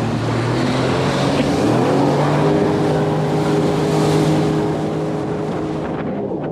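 Jet ski engine speeding up, its pitch rising for about a second and then holding steady at speed, over the rush of water spray and wind.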